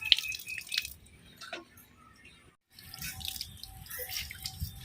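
Wet dripping and small clicking sounds, scattered and irregular, cutting out completely for a moment about halfway through.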